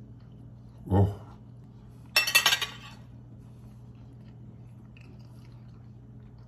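Cutlery clinking on a plate: a short cluster of several quick clinks about two seconds in, over a steady low hum.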